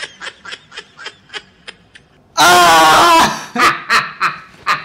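Men laughing: a run of short breathy snickering laughs fades away over the first two seconds, then a loud burst of laughter breaks out about two and a half seconds in, followed by a few more short laughs.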